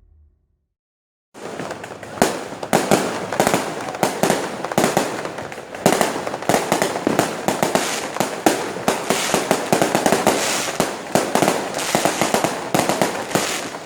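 Fireworks going off in a dense, continuous barrage of rapid bangs and crackles, starting suddenly a little over a second in.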